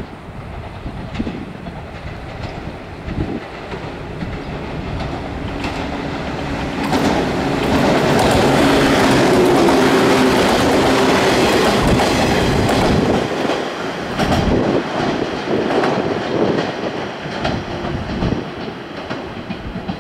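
JR 115 series electric train approaching, passing close by and pulling away, its wheels clattering over the rail joints. The sound builds over the first several seconds, is loudest in the middle as the cars and bogies go by, then fades with scattered clicks as the train recedes.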